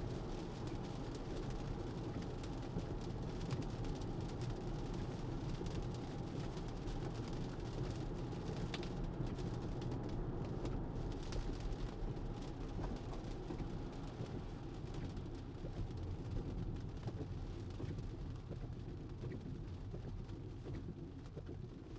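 Steady low rumble of a Tesla's tyres on wet pavement, heard from inside the cabin, with scattered faint ticks of rain. It eases slightly near the end.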